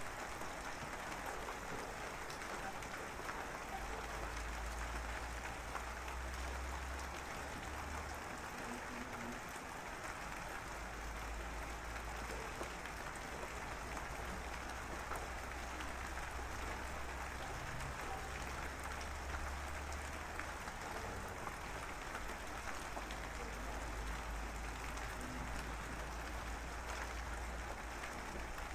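Steady rain falling, an even patter of many small drops, with a low rumble that comes and goes underneath.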